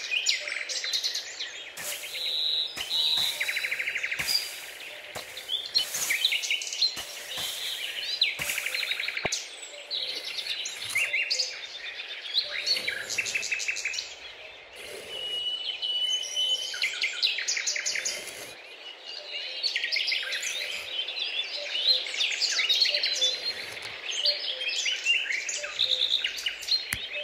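Small birds chirping and twittering. Now and then comes a hissy scraping of a flat wooden tool digging into sand.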